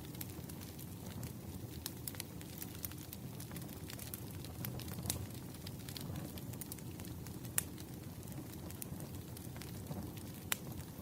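Wood fire crackling: a steady low rush with scattered sharp pops, the loudest about two-thirds of the way in and again near the end.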